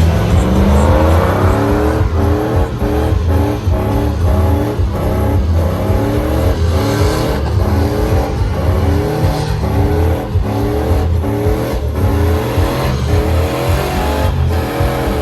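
Truck engine revved hard over and over, its pitch rising about twice a second over a heavy low rumble.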